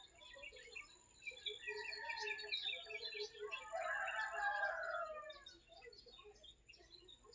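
Small birds chirping in quick repeated notes, with one longer, louder call near the middle that falls in pitch.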